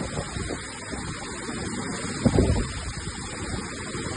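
Storm wind and rain making a steady hiss, with gusts buffeting the microphone and one louder thump about two seconds in.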